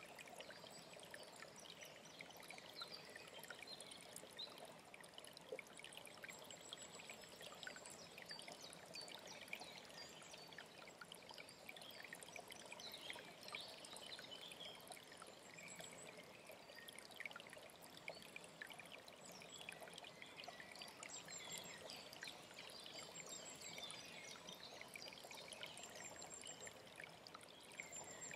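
Faint alpine mountain stream trickling and splashing steadily over stones. Short high chirps repeat at intervals in the second half.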